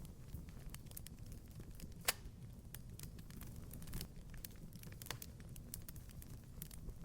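Wood fire crackling in a fireplace: a low steady rumble of the flames with scattered small pops and one sharper, louder pop about two seconds in.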